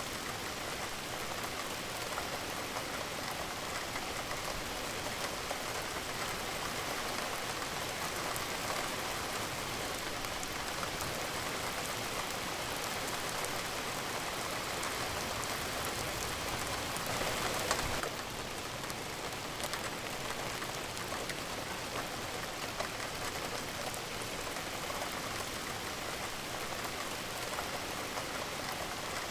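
Steady rain falling on a surface, an even hiss dotted with many small drop ticks. A brief louder swell comes about seventeen seconds in.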